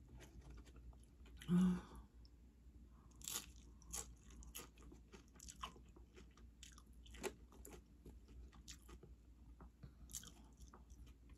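Close-up chewing of nachos: tortilla chips crunching crisply at irregular moments between softer wet mouth sounds. A short vocal sound, louder than the chewing, comes about one and a half seconds in.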